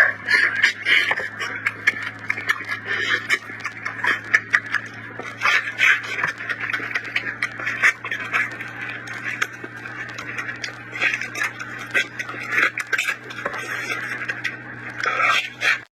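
Close-miked eating: chewing and crunching with many quick irregular clicks and wet mouth noises, over a steady low hum.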